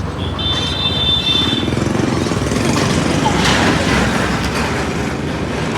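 Tractor engine running steadily, with a brief high-pitched tone lasting about a second and a half near the start.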